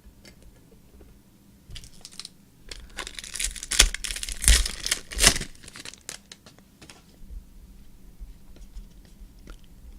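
A basketball card pack's wrapper being torn open and crinkled by hand. There is a short rip about two seconds in, then a longer run of crackling tearing and crumpling that peaks around the middle and ends with a few light clicks.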